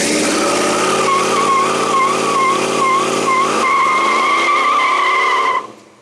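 Tires squealing on a Chevy C10 pickup with a nearly stock 350 V8, the engine running hard underneath as a wavering, steady squeal. The engine pitch rises about three and a half seconds in, and the sound cuts off abruptly near the end.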